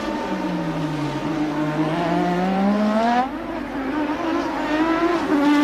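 1988 Formula One car engines at racing speed. One engine's note dips, then climbs steadily as it accelerates, and breaks off about three seconds in, after which another engine note carries on.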